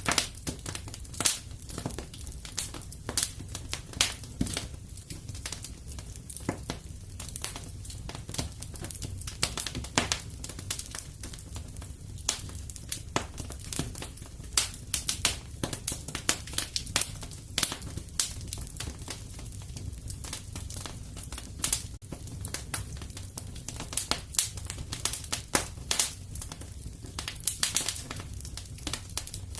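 Wood fire crackling in a fireplace: irregular snaps and pops, several a second, over a steady low rumble.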